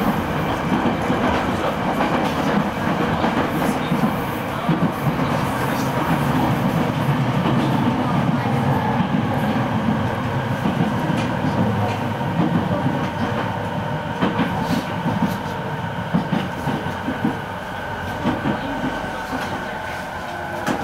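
Running noise inside a JR East E217-series electric multiple unit motor car: wheels clattering over the rails with a steady rumble and some steady whining tones. The noise eases off over the last few seconds as the train slows into a station.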